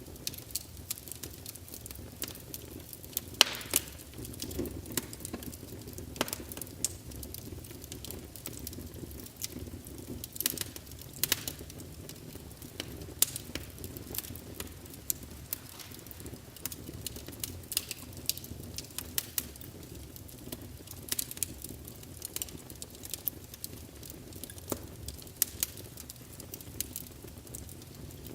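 Wood fire burning in a fireplace: a steady low rumble of flames with irregular sharp crackles and pops from the burning logs, a few louder pops standing out.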